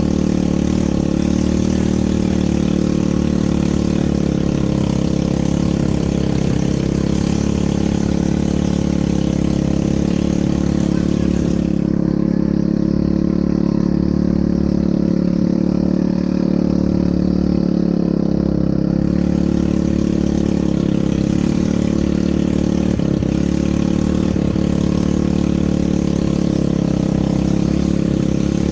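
ATV engine running steadily, with a hiss over it that thins out for several seconds in the middle.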